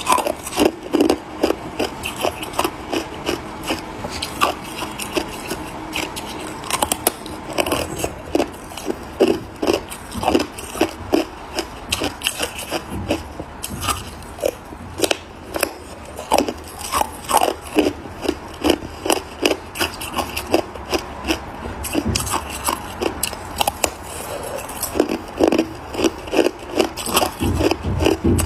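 Ice being bitten and chewed: a quick, irregular run of sharp crunches, several a second.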